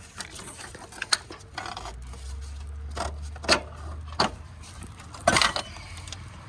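Hand tools and metal parts clicking and clinking irregularly while a bracket is being worked loose from an engine, with a low hum for a couple of seconds in the middle.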